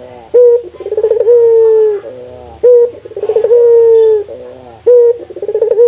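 Burung puter (Barbary dove) cooing loudly in repeated calls, about three in all, one every two seconds or so. Each call is a short note, a quick rolling stutter, then a long held note that droops at the end.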